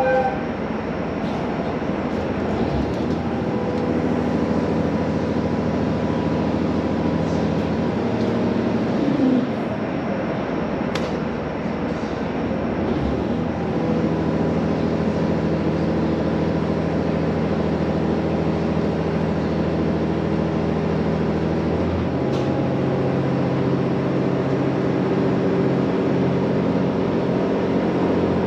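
Steady running drone inside a JR Hokkaido H100 'DECMO' diesel-electric railcar under way, its pitch shifting in steps three times, with a few faint clicks.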